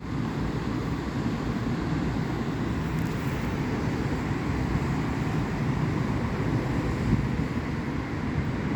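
Steady road traffic noise, a low rumble of passing vehicles with no single event standing out, with wind rumbling on the microphone.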